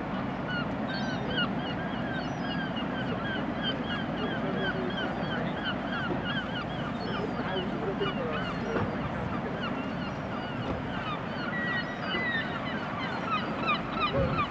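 A flock of birds calling continuously: short, bent call notes several a second, overlapping, over a steady rushing background noise.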